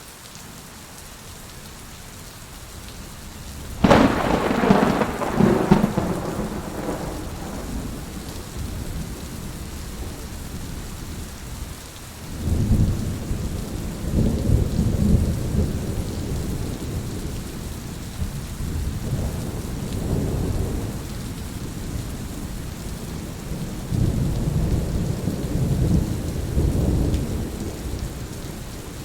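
Heavy rain falling steadily, with a sharp thunderclap about four seconds in that rolls away over several seconds. Long low rolls of thunder follow from about halfway through and again near the end.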